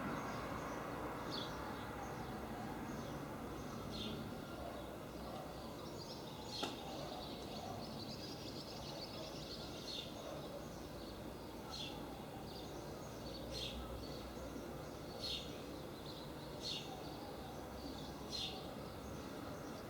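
A bird repeating a short, high chirp about every one and a half seconds over faint, steady outdoor background noise.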